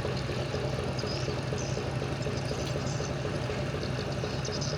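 Tugboat's Hino diesel engine running steadily, a low hum with a regular pulsing beat.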